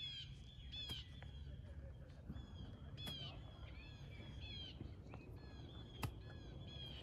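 Birds calling: short chirping notes in quick clusters, repeating every second or so, over a steady low rumble. A sharp click sounds about six seconds in.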